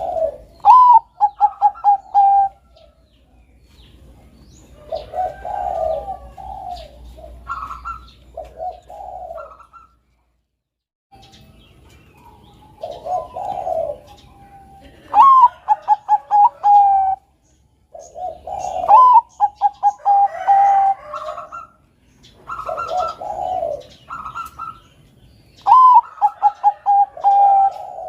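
Bangkok-strain zebra dove (perkutut) cooing. It sings repeated phrases, each a rising note followed by a quick run of short staccato coos, with lower coos in between. There is a brief silent gap about ten seconds in.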